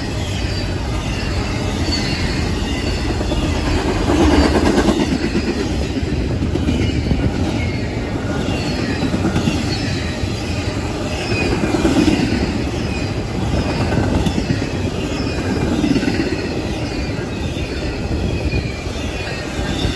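Long, fast CSX intermodal freight train of double-stack container and trailer cars rolling past close by: a steady heavy rumble and rattle of steel wheels on the rail, with faint high wheel squeal. It swells louder as some cars pass, about four seconds in and again near twelve seconds.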